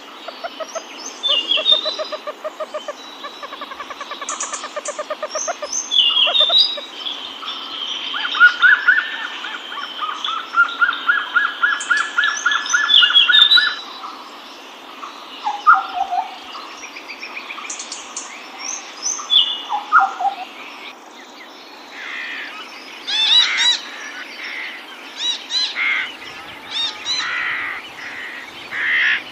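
Several birds singing and calling together, with fast trills, rattling phrases and short whistles that drop in pitch. Past the middle these give way to harsher, repeated squawking calls.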